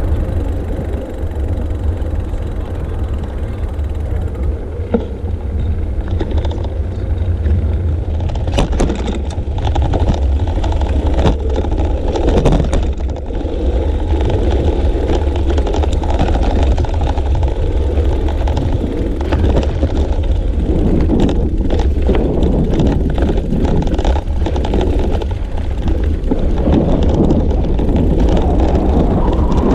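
Wind buffeting the microphone of a GoPro carried on a moving bicycle, a steady low rumble, with scattered knocks and rattles from the bike running over the road surface.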